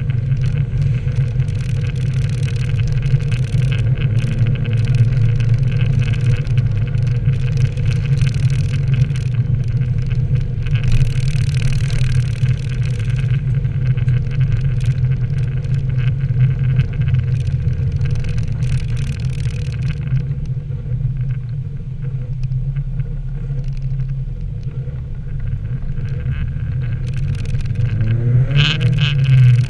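Nissan 240SX (S13) being driven on wet pavement: the engine hums steadily under a hiss of tyres and water spray, and the revs climb near the end.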